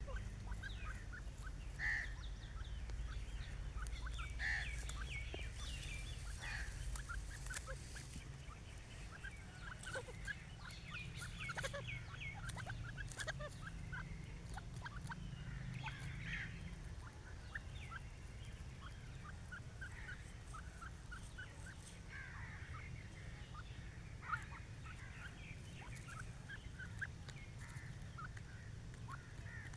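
Grey francolins calling, many short notes and clucks scattered throughout, over a steady low rumble.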